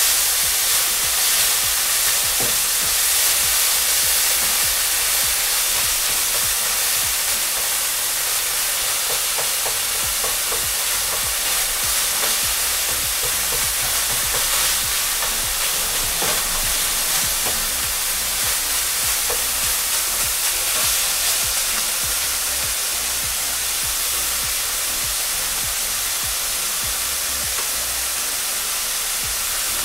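Beef mince frying in a pan: a steady high sizzle, with scattered scrapes and taps of a spatula stirring it.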